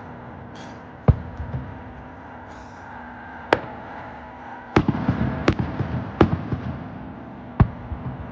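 Aerial firework shells bursting: six sharp bangs, irregularly spaced, the last four close together. Each bang trails an echoing rumble, and a stretch of crackling falls among the middle bursts.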